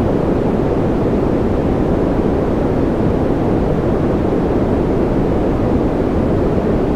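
Continuous generated white noise for sleep: a steady, unchanging rushing hiss, deeper than a flat hiss because most of its energy lies in the low range.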